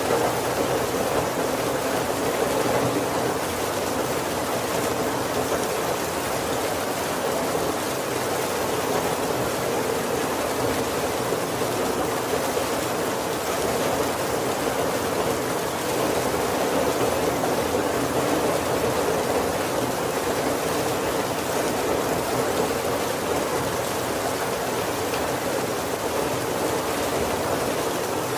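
Heavy rain falling steadily on a wooden carriage roof, a dense, even wash of sound.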